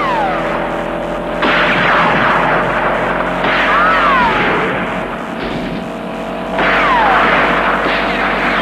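Edited soundtrack of a car driving fast, with a steady hum and a held tone underneath. Abrupt swells come in three times, each carrying falling whistle-like tones.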